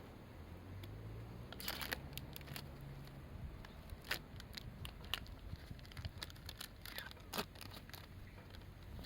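Campfire crackling: burning wood giving off irregular sharp pops and snaps, with a cluster of them a couple of seconds in and another near the end. A faint low hum underlies the first few seconds.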